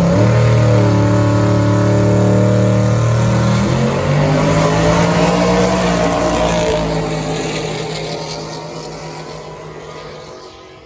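Drag-racing car accelerating hard down the strip, its engine note stepping once at a gear change about four seconds in, then fading as it draws away.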